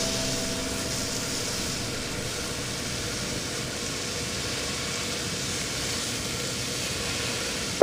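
Ground meat and chopped onions sizzling steadily in a pot as they fry.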